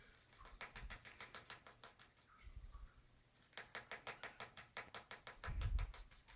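Cockatiel tapping its beak rapidly against a hard surface, woodpecker-style, in two runs of sharp taps at about seven a second, with a low thump near the end.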